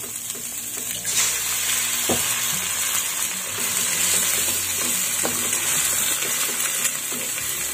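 Prawns and garlic sizzling in oil in a hot pan, the sizzle growing louder about a second in as a raw egg goes into the oil. A spatula knocks against the pan a few times.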